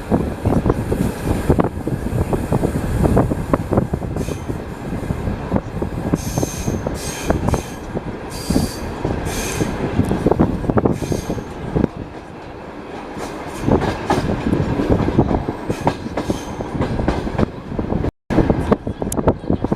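Passenger train carriage wheels running on the rails: a continuous rattle with irregular knocks over joints. Brief high-pitched wheel squeals come in between about six and eleven seconds in, and again near the end.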